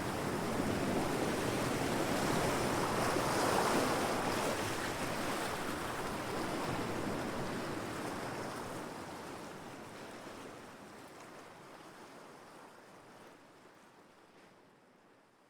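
Heavy ocean waves crashing, a continuous rushing surf that swells about a third of the way in, then fades steadily away to near silence.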